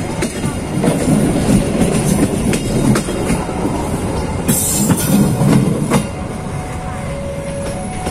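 Train carriages rolling past close by, the wheels clicking over the rail joints in a clickety-clack over a steady rumble. The last car passes and the rumble drops away about six seconds in.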